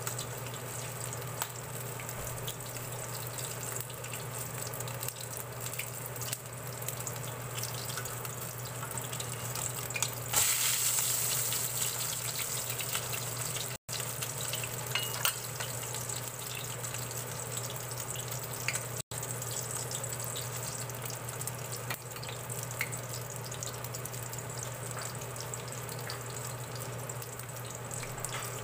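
Okoy, small-shrimp fritters, frying in shallow oil in a stainless steel pan: a steady crackling sizzle, louder for a couple of seconds about ten seconds in.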